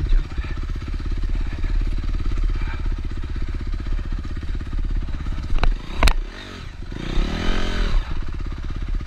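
Honda CRF250R dirt bike's single-cylinder four-stroke engine running steadily. It is broken by a couple of sharp knocks about six seconds in, followed by a rev that rises and falls.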